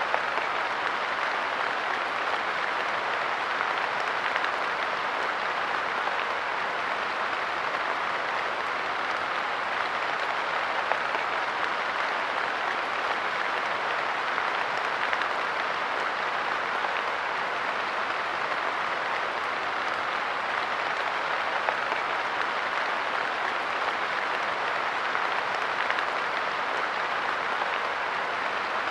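Light rain falling steadily on a park bench, a dense even patter of drops with a few slightly louder single drops.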